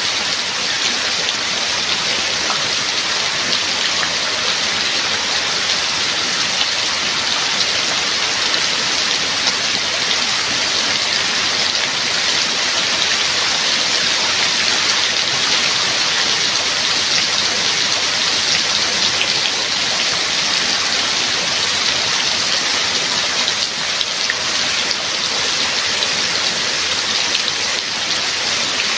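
Steady heavy rain falling, an even hiss with fine drop patter on surfaces and no thunder.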